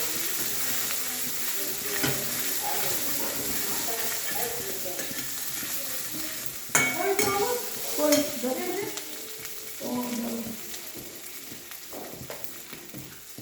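Spices and ginger-cumin paste sizzling in hot oil in a kadai while being stirred with a spatula, the sizzle slowly fading. A sharp clack of the utensil against the pan about seven seconds in.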